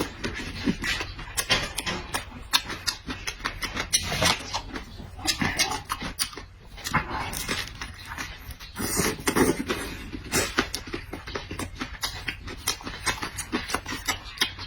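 A person eating noisily: wet chewing and lip-smacking, a quick string of sharp smacks, with a few short low hums of enjoyment.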